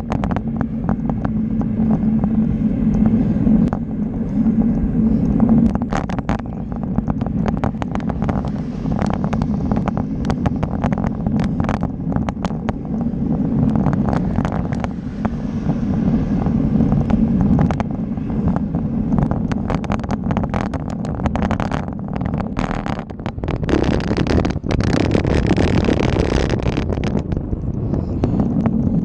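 Riding noise picked up by a camera on a moving bicycle: a steady rumble with frequent clicks and rattles, and a stronger rush of wind on the microphone for a few seconds near the end.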